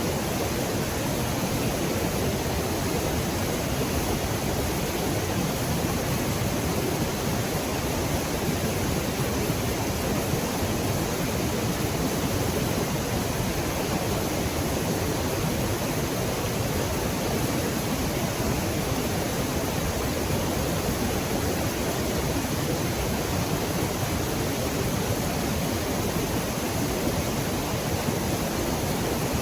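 Steady rushing of a river and waterfall: an even, unbroken wash of water noise.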